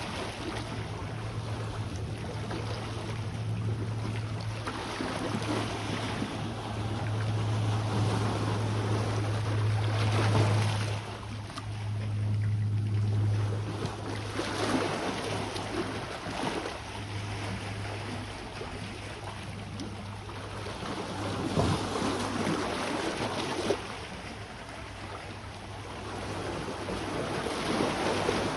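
Sea waves washing onto the shore, the noise swelling and falling in surges every few seconds, over a steady low hum that fades in the last few seconds.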